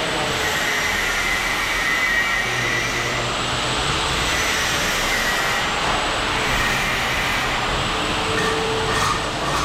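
Steady rush of heavy rain and running water.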